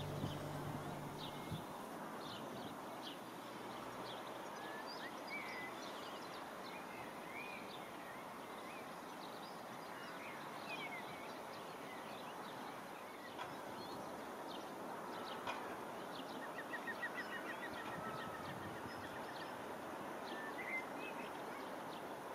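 Songbirds chirping and calling here and there over a steady faint background noise of the open air. About three-quarters of the way through, one bird gives a quick trill of evenly spaced notes.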